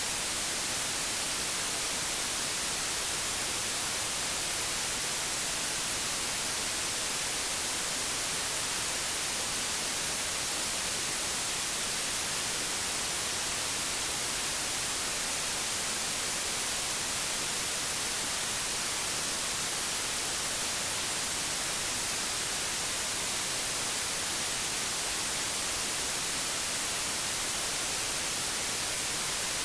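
Steady hiss of analogue television static (snow on an untuned set), even and unchanging, brightest in the high end.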